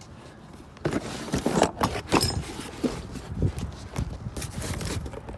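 Metal door locks and hardware clanking and rattling as they are handled and rummaged through, with irregular knocks starting about a second in.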